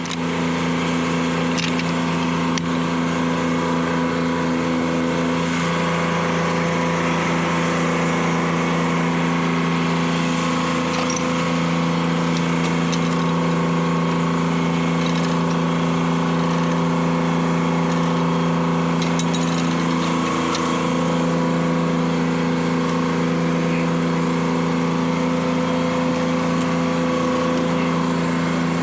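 Detroit Diesel 3-71, a two-stroke three-cylinder diesel, running at a steady speed to power a sawmill.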